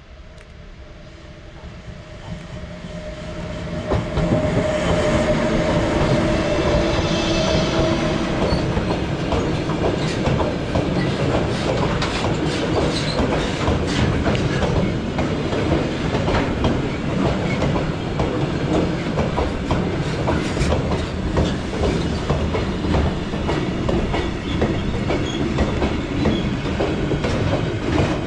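Freight train coming up and passing close by: a steady hum that grows louder over the first four seconds, then the wagons' wheels clattering over the rail joints in a continuous clickety-clack.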